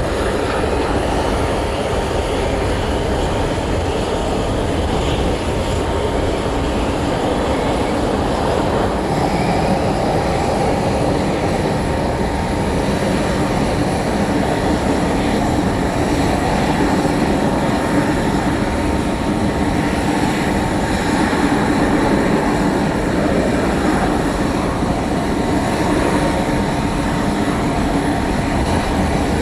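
Aircraft engines running steadily: a loud, even rumble with a steady whine through it.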